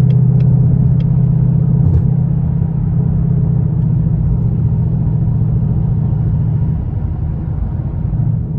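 2019 Ford Mustang GT's 5.0 L V8 running at a steady cruise, a low, even exhaust drone while the car is driven.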